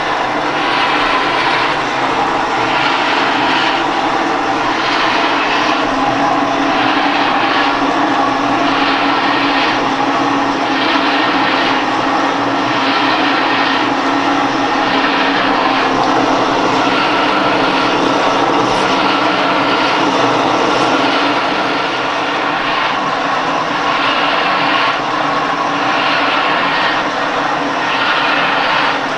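Kayak ergometer being paddled: its flywheel whirs steadily, with a surge at each paddle stroke, roughly once a second.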